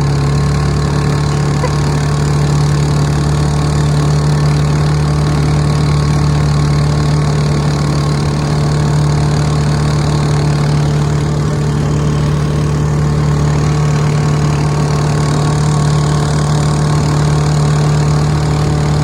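Lawnmower-engine outboard motor running steadily at full throttle, its pitch held level, with a broad hiss underneath.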